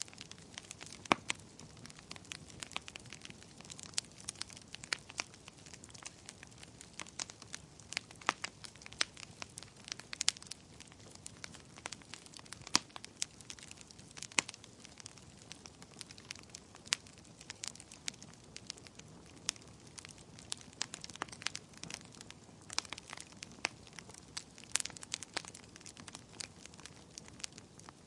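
Wood bonfire burning, with irregular sharp crackles and pops over a faint steady hiss of the flames.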